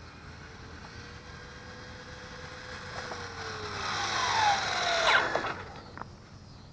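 Brushed electric motor and gears of a Traxxas 4-Tec 3.0 RC truck whining as it drives. The whine grows louder and drops in pitch as the truck slows, then cuts off about five and a half seconds in.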